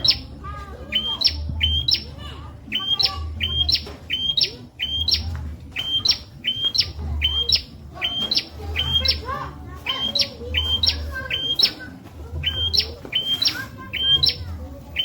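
Prenjak (prinia) singing, a fast run of sharp chirps that step up in pitch. The chirps come in quick groups of two or three, repeated about once a second.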